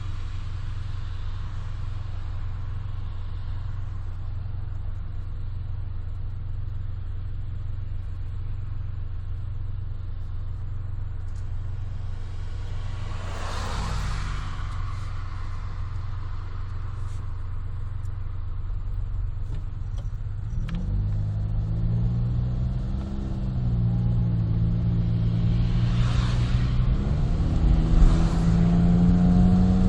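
Honda Life JB5's three-cylinder kei-car engine running through a Rosso Modello GT-8 aftermarket muffler, heard from inside the cabin with a window open. The exhaust holds a steady low drone while cruising, then about two-thirds of the way in the note climbs as the car accelerates. Two brief rushing noises pass, at about the middle and near the end.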